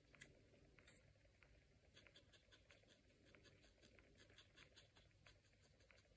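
Near silence with faint, irregular little scratches and taps of a painting tool working on paper.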